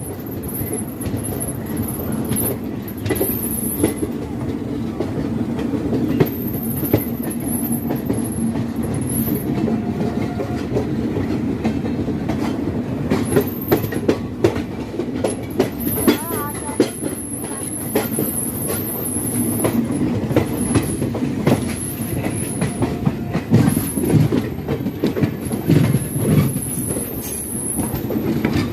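Passenger express train running, heard from on board: a steady rumble of the coaches with many sharp clacks of the wheels over rail joints, and a thin high squeal of the wheels that comes and goes.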